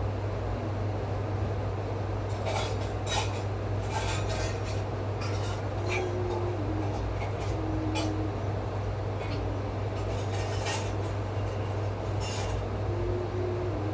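A steady low hum under a run of light clicks and clinks, scattered irregularly through the middle of the stretch.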